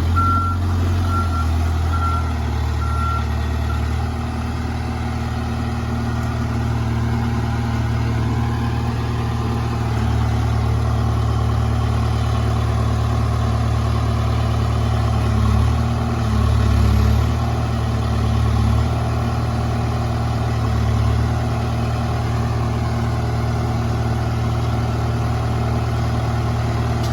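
Diesel engine of heavy machinery running steadily, its note and load shifting a few times as it is worked. A short run of high, evenly spaced beeps sounds in the first few seconds.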